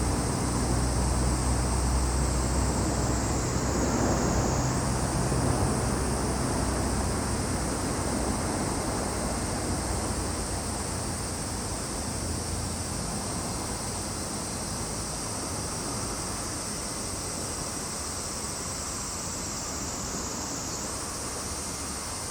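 A continuous, high-pitched drone of summer insects, its pitch sliding slowly down and jumping back up twice. Beneath it, a low rumble of a passing vehicle or aircraft fades out over the first several seconds.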